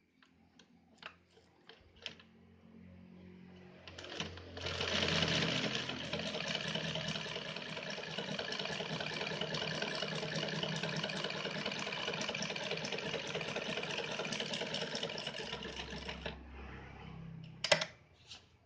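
Yamato 673 zigzag sewing machine sewing a zigzag test stitch. After a few light clicks its motor starts up about four seconds in and runs steadily at speed for about twelve seconds, then winds down, with a sharp click near the end.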